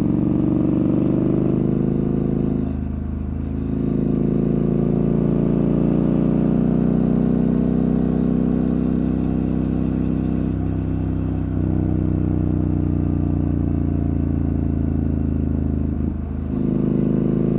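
Triumph Scrambler 1200's parallel-twin engine running at a steady idle through its exhaust, with slight shifts in engine speed a few times.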